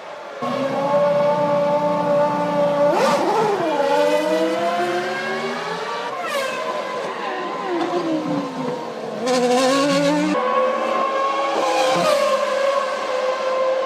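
Formula One cars' 3-litre V10 engines at high revs, the pitch climbing and dropping sharply as they shift gears and brake, with sudden changes where the shots cut from car to car.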